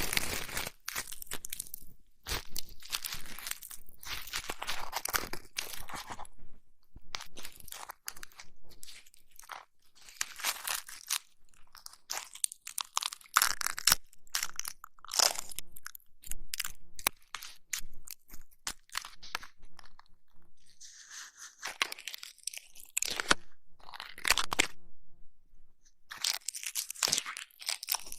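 Close-miked crunching and crackling ASMR sounds in irregular bursts of a second or two, with short pauses between: ear-massage and ear-cleaning sounds made on the microphone.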